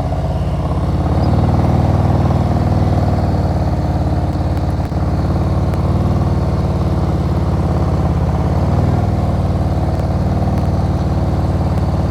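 Motorcycle engine running steadily at low revs while the bike is ridden slowly up a steep hill, the throttle held slightly open with the clutch slipping in the friction zone.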